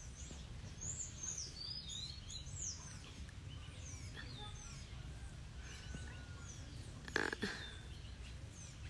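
Small birds chirping with many short, quick high calls, busiest in the first few seconds, over a steady low background rumble. A brief, louder burst of noise comes about seven seconds in.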